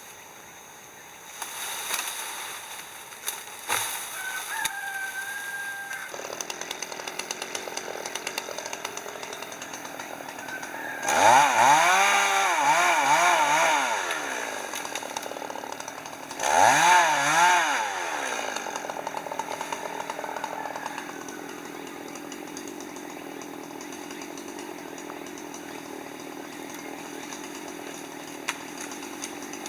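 Chainsaw running steadily, revved up hard twice, with the pitch swinging up and down while at full throttle.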